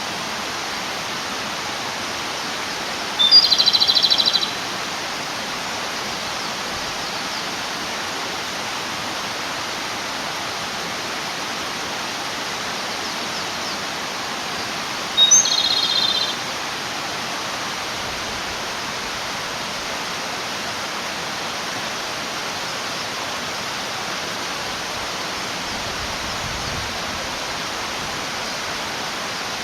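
Japanese robin singing twice, each phrase about a second long: a sharp high opening note followed by a fast rattling trill. The male is singing to call a female. A steady rush of a flowing stream runs underneath.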